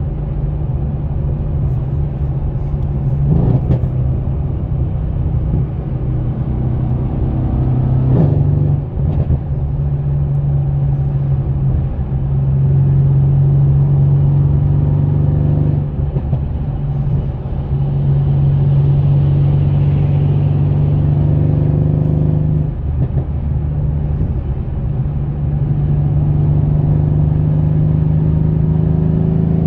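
Mercedes-AMG C63 S coupe's 4.0-litre twin-turbo V8 with catted downpipes, droning steadily at highway cruise, heard from inside the cabin. The note breaks briefly a few times, and near the end its pitch climbs as the car accelerates.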